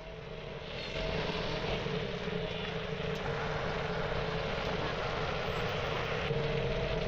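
Steady mechanical running noise with a constant hum, getting louder about a second in and then holding level.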